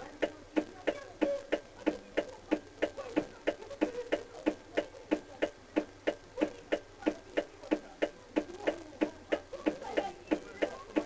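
Steady, even ticking, about four sharp ticks a second, with faint wavering tones underneath.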